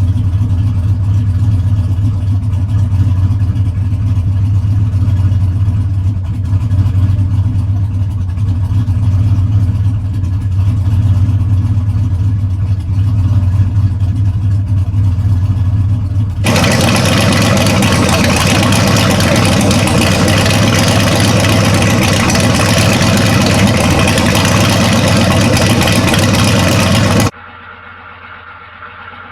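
Turbocharged 6.0 LS V8 in a 1979 Chevy C10 running at a steady idle just after its first start on a Holley Terminator X Max EFI. About sixteen seconds in, the sound switches abruptly to a loud even hiss, and near the end it drops suddenly to a much quieter, duller engine sound.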